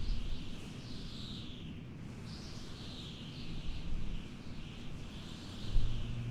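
Birds calling in a forest ambience: a string of high falling calls over a low rumble of wind. A low steady hum comes in near the end.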